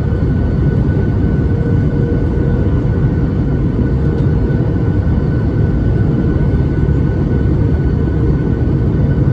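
Boeing 737 MAX 8's CFM LEAP-1B turbofan engines heard from inside the cabin over the wing: a steady deep rush with a steady whine in it.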